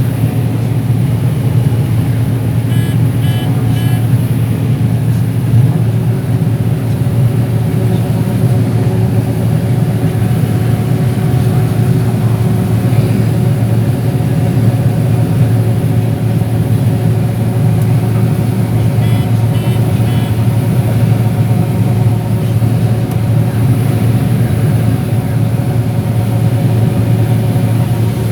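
John Deere 9760 STS combine running steadily while harvesting corn: a loud, even low drone with a layered machinery hum above it. Short high electronic beeps sound in quick groups of three, about 3 seconds in and again about 19 seconds in.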